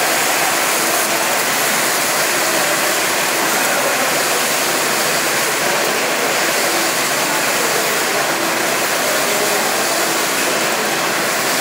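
Brushless (touchless) automatic car wash running: a loud, steady rush of high-pressure water spray.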